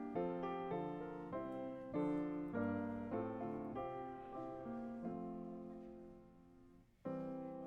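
Piano playing a slow hymn-like piece in steady chords; a held chord fades away near the end, then the playing starts again.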